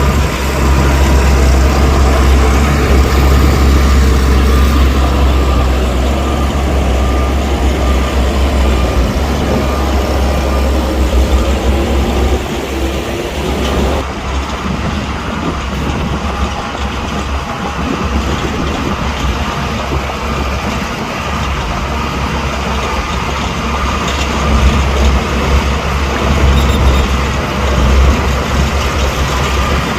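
Heavy diesel earthmoving machinery running, a loud steady low rumble with engine and mechanical noise; the sound changes abruptly about halfway through.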